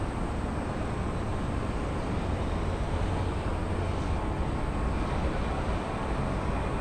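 Jet aircraft engine noise: a steady rumble with a broad rushing haze above it, with no clear rise or fall.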